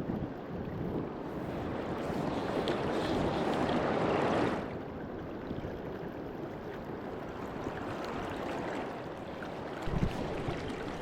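A river rushing steadily. The sound swells until about four and a half seconds in, then drops suddenly to a quieter, even rush.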